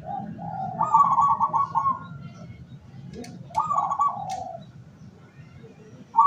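Zebra dove (perkutut) cooing: two phrases of fast, trilled coos, each about a second long, a few seconds apart, with another phrase starting at the very end.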